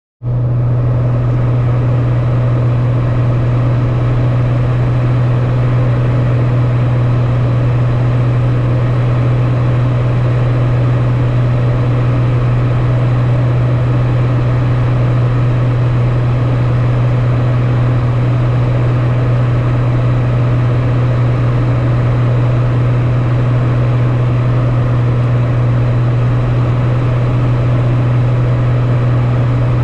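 Airplane in flight on its landing approach: a loud, steady engine drone with a strong low hum.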